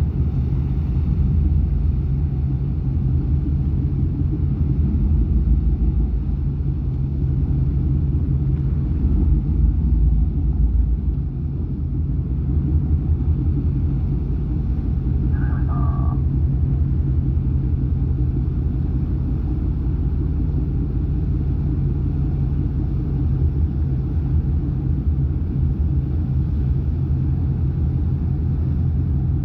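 High-speed passenger boat's engines running with a steady low rumble and hum as it comes into port.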